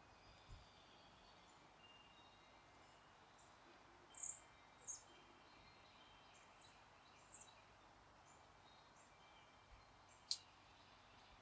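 Faint distant birds chirping: scattered short high calls, two louder ones about four and five seconds in, over a quiet steady outdoor background. A single sharp click near the end.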